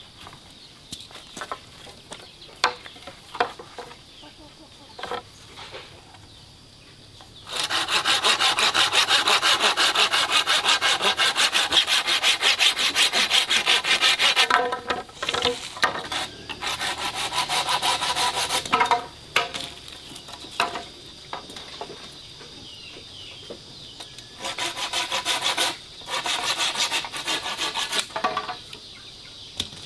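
Hand saw cutting wood in long, fast runs of strokes. It starts loudly about a quarter of the way in, stops briefly, resumes, and comes back in two shorter bouts near the end.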